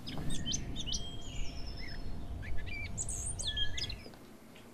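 Small birds chirping and twittering in a string of quick, high chirps that rise and fall, over a low rumble of outdoor ambience. Both stop about four seconds in.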